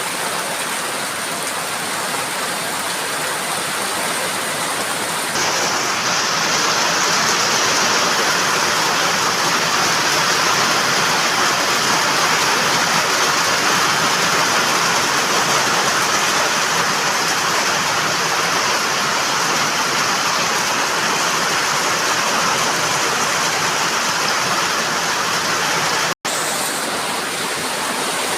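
Heavy rain pouring down in a dense, steady hiss. It grows louder about five seconds in, and breaks off for a split second near the end before carrying on.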